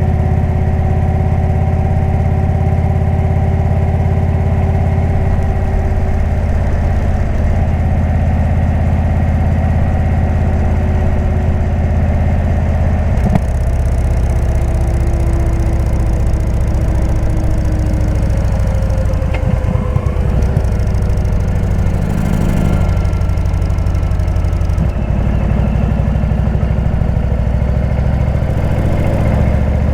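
Indian V-twin motorcycle engine running through a Jekill & Hyde exhaust, a steady low note that steps in pitch about halfway through and again near the end.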